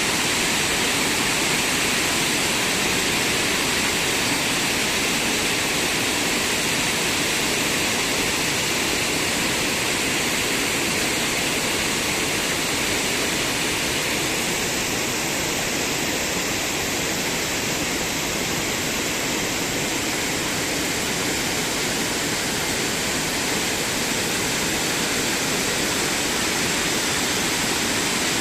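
Steady rush of fast-flowing water, loud and unchanging.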